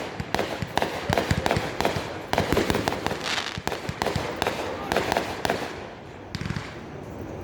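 Fireworks going off in a dense, rapid string of pops and bangs, crackling on for about six seconds before thinning out near the end.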